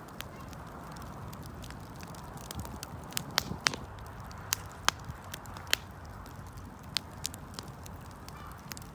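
Wood fire burning: irregular sharp crackles and pops over a low steady rumble of the flames, with a quick cluster of pops a little past three seconds in.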